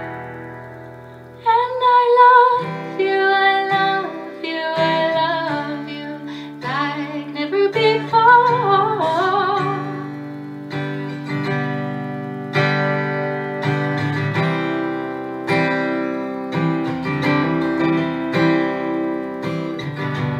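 A woman singing to acoustic guitar. Her voice glides through a phrase over the guitar, then drops out about halfway, and the guitar carries on alone with strummed and picked chords.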